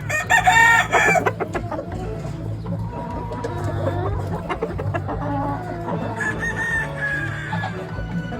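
Gamefowl roosters crowing, one loud crow in the first second and more crowing and clucking later, over background music.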